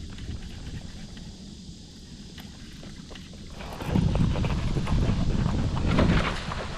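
Wind buffeting the microphone out on open water. It is a low rumble at first and gets much louder a little past halfway.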